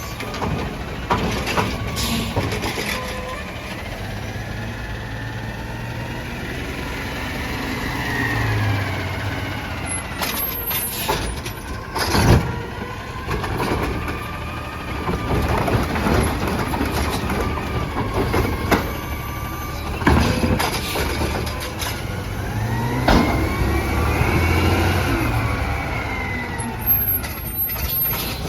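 Autocar ACX garbage truck at work: the engine revs up and back down twice, with loud clanks and knocks in between.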